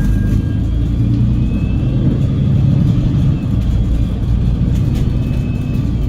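Cummins L9 straight-six diesel of a double-decker bus running steadily under way, heard from inside the bus, with a faint high whine over the engine note.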